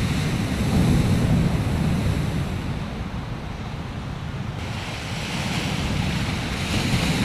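Ocean surf rushing, with wind buffeting the microphone.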